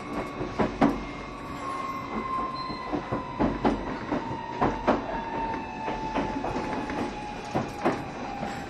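Onboard running sound of a JR Shikoku 7200 series electric train. A single whine slides slowly down in pitch, as when the train is slowing. Irregular sharp clacks and knocks from the wheels run over a steady low rumble.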